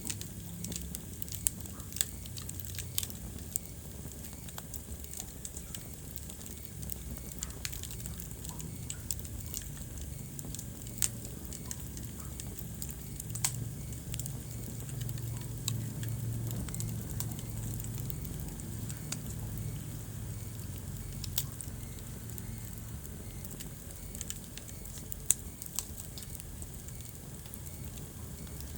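Wood fire burning in a fireplace: a low steady rumble under scattered sharp crackles and pops, with a handful of louder pops.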